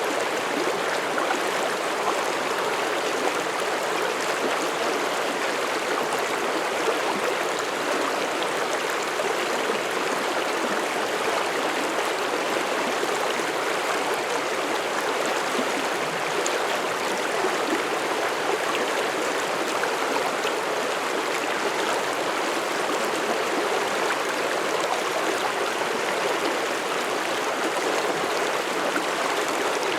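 Mountain stream flowing over rocks through forest: steady rushing and babbling water.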